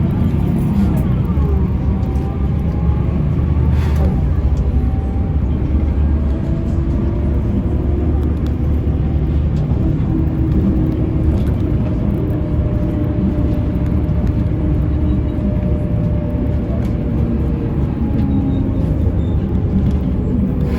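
Mercedes-Benz O405N2 city bus under way, heard from inside: a continuous low engine and road rumble with a whine whose pitch rises early on and then holds roughly steady. There is a single knock about four seconds in.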